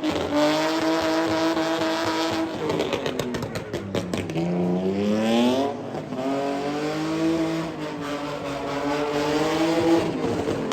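BMW E46 325i's straight-piped 2.5-litre inline-six with headers, held at high revs while drifting. The revs dip, then climb back in a rising whine about five seconds in, and are held high again.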